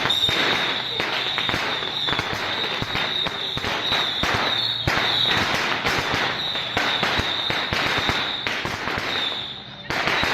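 A long string of firecrackers going off in rapid, irregular cracks, with a steady high-pitched tone sounding over them; the crackling thins out near the end.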